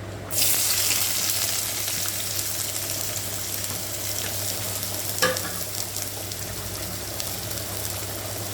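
Onions dropped into hot coconut oil in a pan start sizzling all at once just after the start, then fry steadily. A utensil clinks against the pan once about halfway through.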